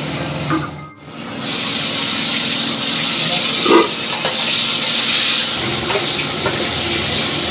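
Duck pieces frying in camellia oil in a wok, with a steady sizzling hiss of steam. There is a single short knock of the metal spatula a few seconds in.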